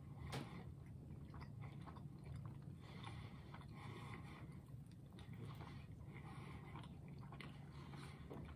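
Faint, soft chewing of a mouthful of breaded chicken sandwich with closed lips, over a low steady hum.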